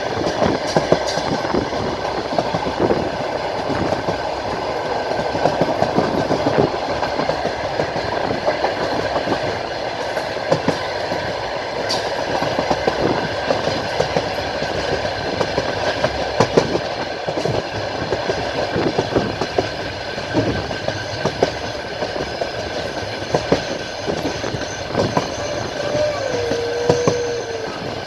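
Clatter of a passenger train's wheels over the rail joints, heard from inside the carriage: steady running noise with irregular knocks. A short falling whine comes near the end.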